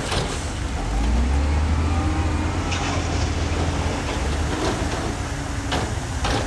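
A heavy earthmoving machine's diesel engine running with a deep, steady rumble, its pitch rising slightly about a second in. A few sharp metallic clanks come through, once midway and twice near the end.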